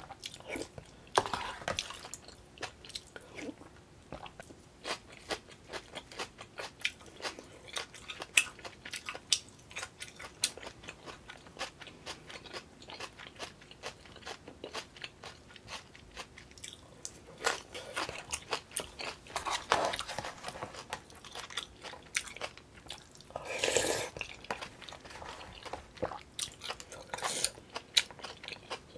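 Close-miked chewing and crunching of food, with many quick wet mouth clicks and a few louder spells of noisier eating about 17, 20, 24 and 27 seconds in.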